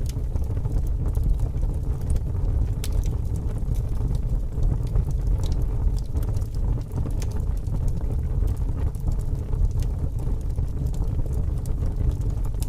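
Wood fire burning with scattered sharp crackles and pops over a steady low rumble of strong wind.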